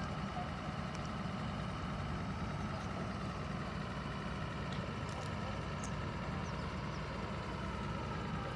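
Borewell drilling rig's engine running steadily with an even drone, a few faint ticks over it.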